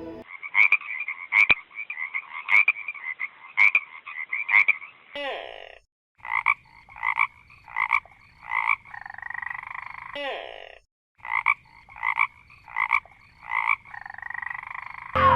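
An animal croaking in short repeated calls, about one and a half to two a second, in three bouts with brief breaks between them. Twice a quick falling squeak starts a bout.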